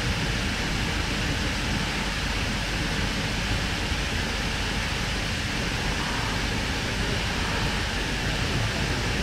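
Steady running noise inside the passenger car of a moving Sydney Trains K-set electric train: the wheels rolling on the rails, heard as an even rumble and hiss that holds constant throughout.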